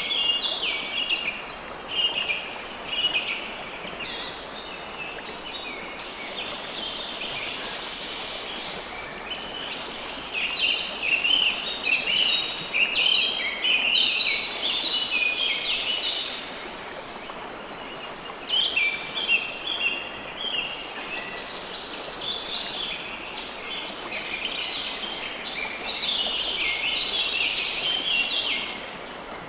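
River water flowing steadily, with birds chirping over it in busy bursts of quick high notes that come and go.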